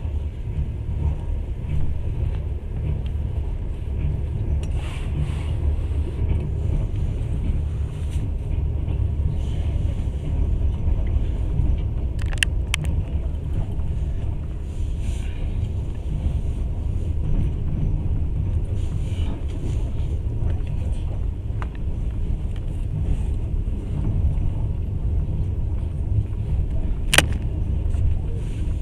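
Passenger train running along the track: a steady low rumble of wheels on the rails. A few sharp clicks cut through it, a close pair about halfway through and the loudest near the end.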